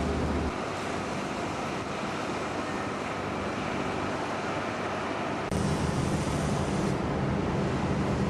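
Steady wind-like rushing noise with a low engine hum under it; the hum drops out about half a second in and comes back louder about five and a half seconds in.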